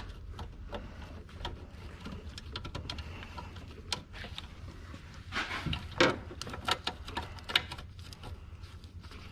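Irregular metal clicks and clinks of hand tools and bolts while an engine-bay bracket is refitted, with a few sharper knocks about five and a half, six and seven and a half seconds in.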